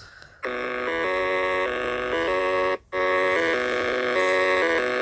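A simple electronic melody of single notes, like a ringtone or alarm tune, played in phrases with a short break about three seconds in.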